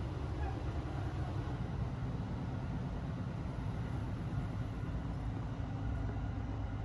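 Steady low rumble of the Sunrise Izumo sleeper train running, heard from inside the carriage. It eases slightly near the end.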